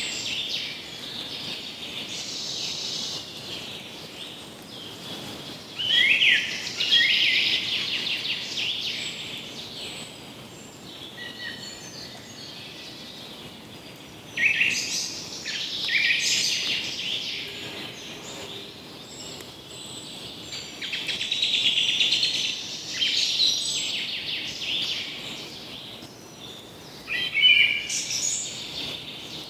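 Small birds singing and chirping in bursts every few seconds, over a steady background hiss.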